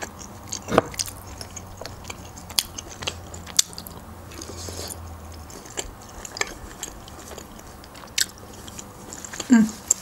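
Close-up mouth sounds of a person eating black olives: chewing and biting, with scattered short wet clicks and smacks. There is a brief closed-mouth hum near the end.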